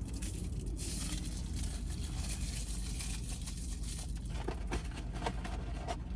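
Rustling and crinkling of takeout food packaging being handled and opened, with a few light clicks near the end, over a steady low hum.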